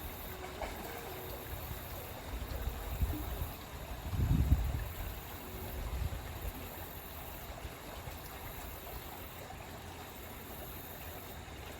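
Rushing stream water running steadily over a fast, heavy stretch. A few low rumbles rise out of it between about three and six seconds in, the loudest around four and a half seconds.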